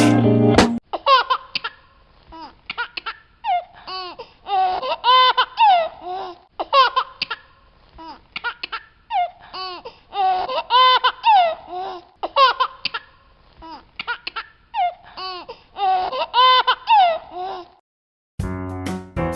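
A baby laughing and giggling in short runs of bursts with pauses between them. The runs seem to repeat, like a looped laugh clip.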